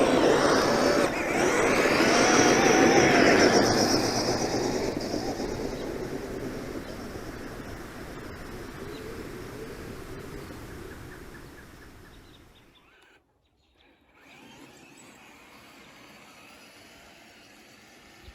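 Kyosho Blizzard RC snowcat's motor whining with a wavering pitch as the tracked model churns through snow, loudest in the first few seconds and then fading as it drives away. Near silence follows, then faint outdoor background.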